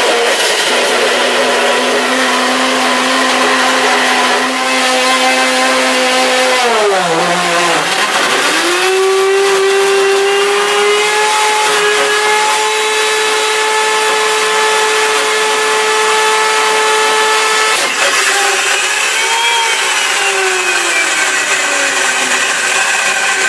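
Blendtec Total Blender's motor running, a steady pitched whine that sags sharply in pitch about seven seconds in and climbs back to a higher steady note, then swoops up and down again near the end, with a rough noisy layer over it throughout.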